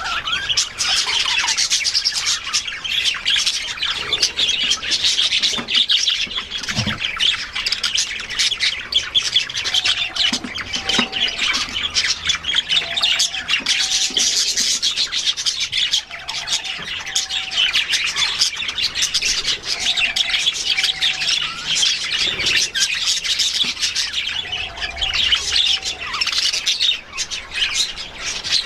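An aviary flock of budgerigars chattering and chirping continuously, with a short, low two-note call repeating about every three to four seconds from about ten seconds in.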